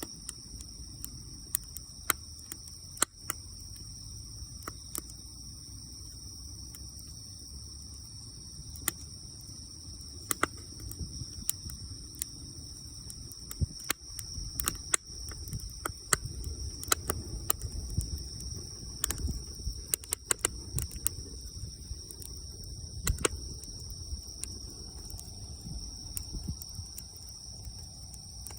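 Wood fire crackling, with sharp irregular pops over a low fluttering rumble; the pops come thickest in the middle. Insects trill steadily at a high pitch behind it.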